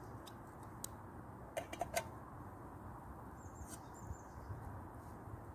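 Campfire crackling: scattered sharp pops over a steady low hiss, with a quick cluster of pops about one and a half to two seconds in.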